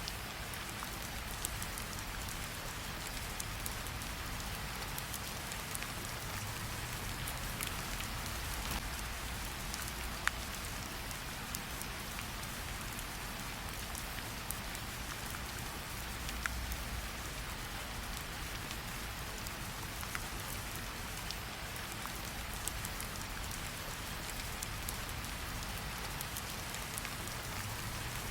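Steady rain falling, mixed with a crackling campfire whose scattered sharp pops stand out over the hiss of the rain, and a low rumble underneath.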